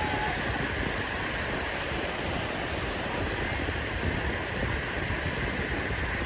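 Sea waves washing onto a beach: a steady, continuous rush of surf.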